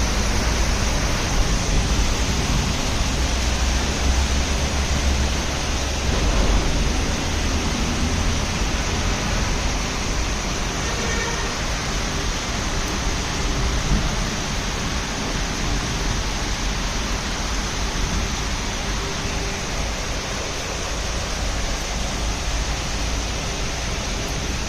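Heavy rain pouring steadily, an even, dense hiss with a low rumble underneath.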